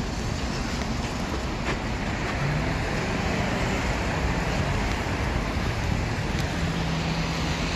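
Steady rushing road noise of a car moving along rain-wet streets: tyre hiss on wet pavement with a faint low engine hum.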